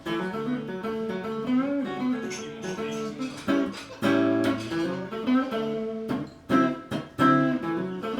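Solo guitar playing a blues phrase in the A major pentatonic, single-note runs broken by a few short strummed chords.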